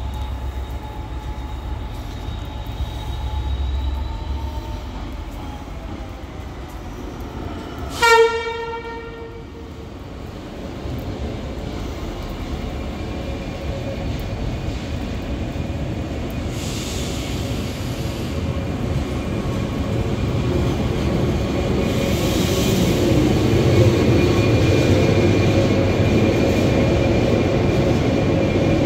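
Irish Rail 22000 class InterCity Railcar diesel train sounding one short horn blast about eight seconds in, then rumbling steadily louder as it pulls into the platform, with a steady engine hum under the rumble.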